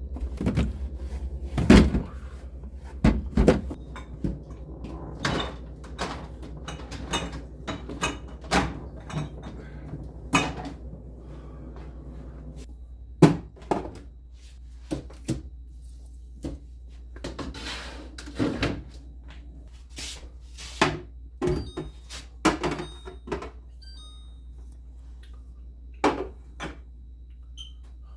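Irregular knocks, clunks and rubbing as a refrigerator is wiped down and handled, its doors and drawers opening and closing, over a steady low hum.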